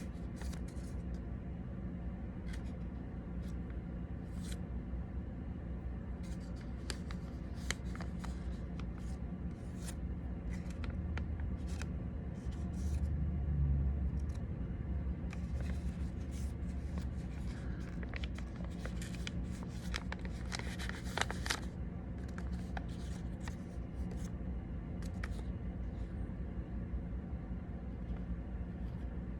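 Sheet of origami paper being handled and folded by hand: scattered short crinkles and crackles of the paper, busiest a little past the middle, over a steady low hum.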